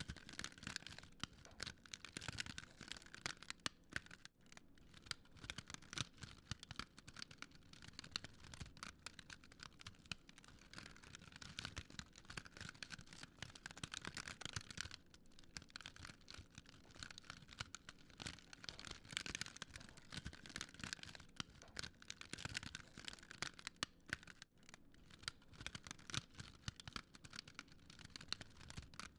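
Fire crackling: a dense, irregular run of small pops and snaps over a soft hiss, swelling and easing every few seconds.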